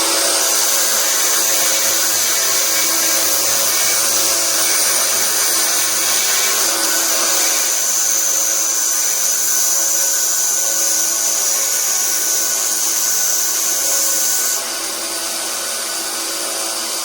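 Delta bench belt sander running loud with a coarse-grit belt, grinding a metal workpiece with a steady, high-pitched hiss over the motor. Near the end the hiss stops and the level drops as the work comes off the belt, leaving the sander running on its own.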